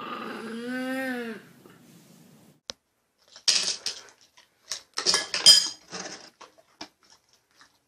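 A short pitched call that rises and falls, then a scattered run of sharp clinks and clatters like dishes or metal knocking together.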